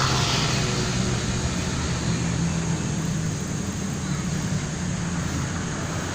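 Steady wind and rolling noise while riding a bike along a road, with a low hum underneath.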